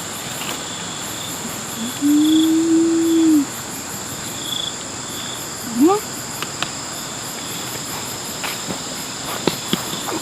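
Insects trilling steadily, with softer chirps on top. About two seconds in, a loud held call lasts about a second and a half, and a short rising call follows near six seconds, both from an unknown source. A few faint clicks come later.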